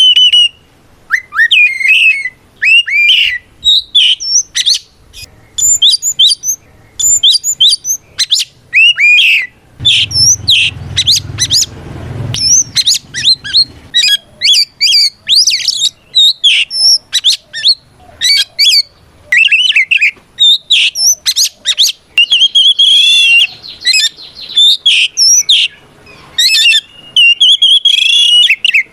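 Oriental magpie-robin (kacer) in full, loud song: rapid, varied whistled notes and sharp slurred phrases, breaking into longer warbled runs toward the end. It is a combative 'ngeplong' song of the kind that calls out a rival male.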